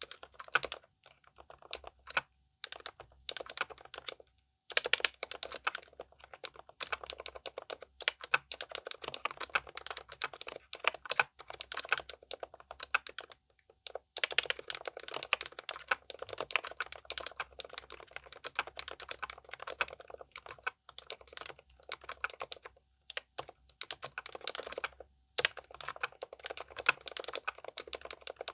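Continuous fast typing on a Keychron K10 Pro SE mechanical keyboard fitted with pre-lubed K Pro silent red linear switches: a dense run of soft keystrokes with a few short pauses.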